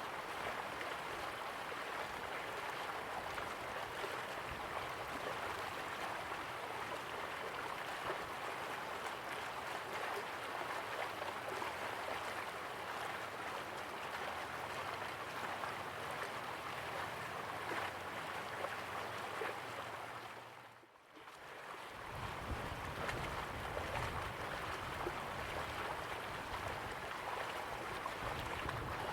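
Slow-flowing river water, a steady rushing. About two-thirds of the way through it fades out briefly and returns with more low rumble.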